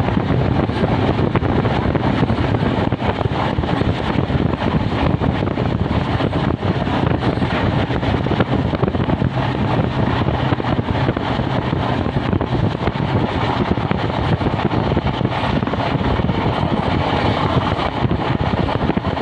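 Passenger train running at speed: a steady, loud rumble and rush of the wheels on the track.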